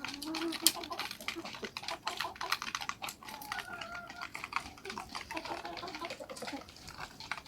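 Chickens pecking at feed, a rapid, irregular tapping of many small clicks, with a few short calls from the birds.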